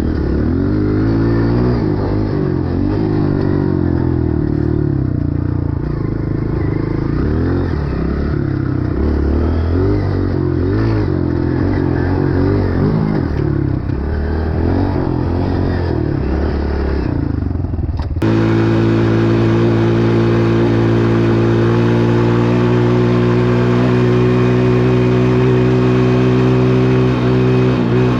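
Dirt bike engine revving up and down as it is ridden, the pitch rising and falling with the throttle. About eighteen seconds in, the sound switches abruptly to a steady, even engine note.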